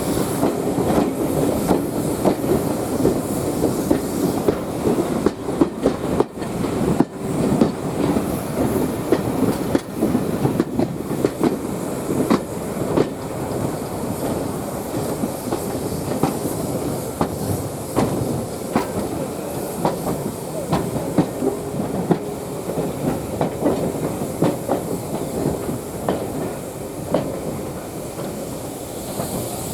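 A railway carriage running along the track, heard from aboard the moving train: a steady rumble with a continual scatter of clicks and knocks from the wheels over rail joints.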